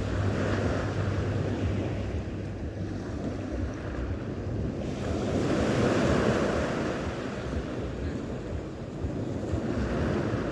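Sea surf washing onto the shore, with wind on the microphone. The wash swells up twice, just after the start and again around six seconds in.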